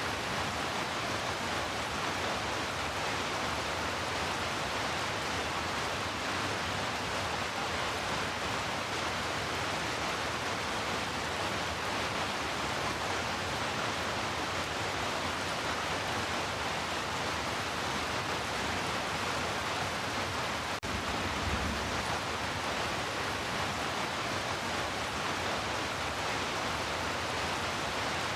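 Heavy rain falling steadily, a dense even hiss with no thunder, with one brief click about three-quarters of the way through.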